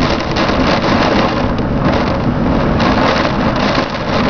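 Storm-force wind with driving rain: a loud, steady rush of noise, with a few faint clicks of debris.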